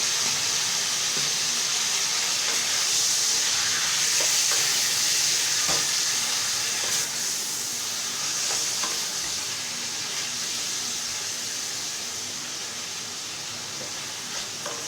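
Chicken pieces sizzling steadily as they fry in hot refined oil in a pan, with a few faint clicks as they are stirred. The sizzle softens gradually.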